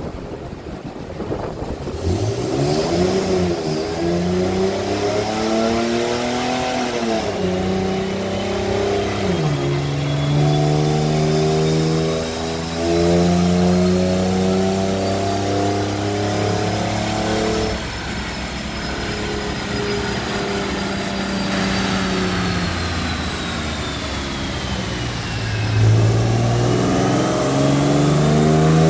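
Infiniti G37's 3.7-litre VQ V6 running hard on a chassis dynamometer. The revs climb and drop back twice early on as it goes up through the gears, then rise slowly at speed, ease off about two-thirds through, and climb again near the end. A faint high whine rises and falls with the speed.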